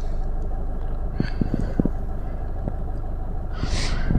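Car's 1248 cc diesel engine idling at about 800 rpm just after a start, a steady low hum heard from inside the cabin. A few soft clicks come about a second and a half in.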